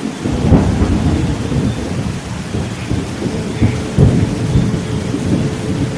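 Thunderstorm: steady rain with thunder rumbling low and continuously, swelling about four seconds in. A faint steady tone runs underneath.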